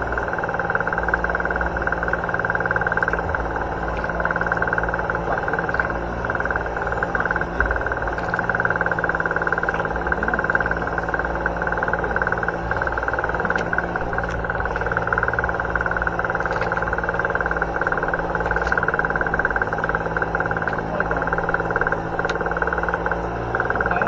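Boat engine running steadily at a constant speed: a low hum with a steady high whine over it.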